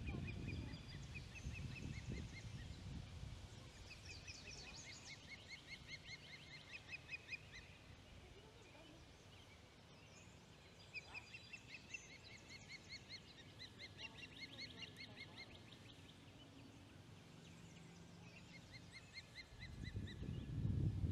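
Osprey calling: repeated runs of rapid, high, short chirps, several in a row, with a pause in the middle.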